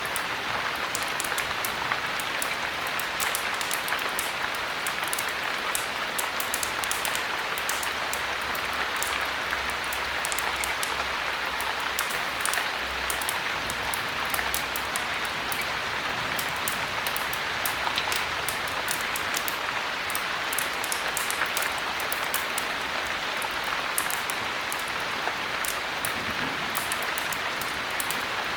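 Heavy rain falling steadily, an even hiss sprinkled with many small, sharp drop ticks.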